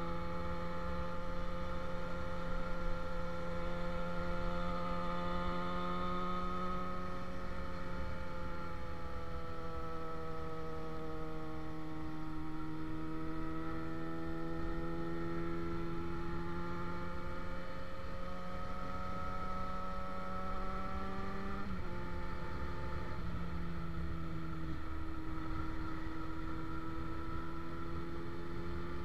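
Motorcycle engine running at road speed, its pitch sinking slowly around the middle, rising again, then dropping suddenly about two-thirds in. Low wind and road rumble underneath.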